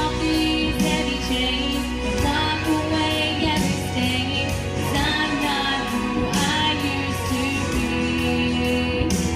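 Christian pop song: a woman singing over an instrumental accompaniment.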